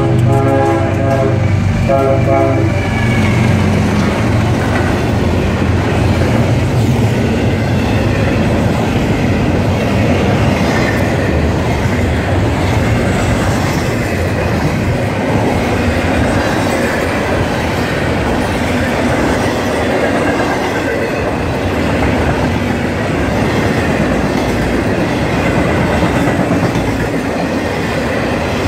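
Diesel freight locomotive sounding its horn in two blasts, the chord ending about three seconds in, as the train arrives. Then comes the steady rumble and wheel clatter of an intermodal freight train's cars rolling past.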